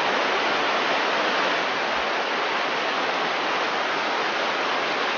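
A river rushing steadily, with a loud, even roar of running water; the river is running high and full.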